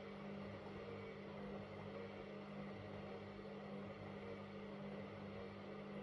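Washing machine running, its motor giving a steady hum over a soft whirring noise.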